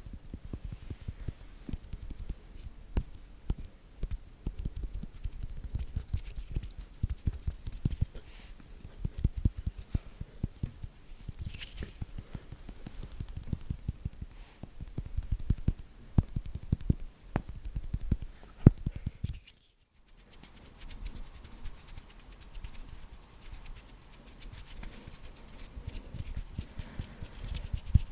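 Close-miked hand sounds: palms and fingers rubbing, tapping and fluttering by the microphone, as a run of soft crackles and taps. A brief silence comes about two-thirds of the way through, after which the hand sounds are faster and more even.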